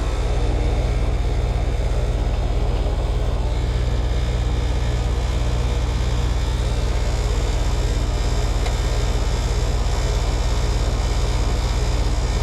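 Heat pump outdoor unit running steadily in cooling mode, its compressor and condenser fan making a constant low hum, with the system settled during a maintenance check.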